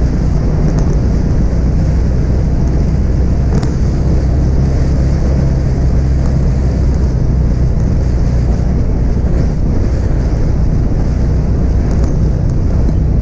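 A car driving along: a steady, loud low rumble of engine and road noise, with wind noise over it.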